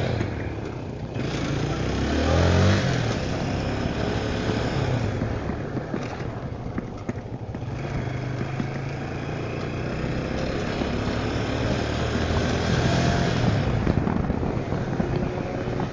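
Italika Tornado 250 single-cylinder motorcycle engine pulling away, its pitch rising steeply about two seconds in, then running steadily under way, with another rise near the end.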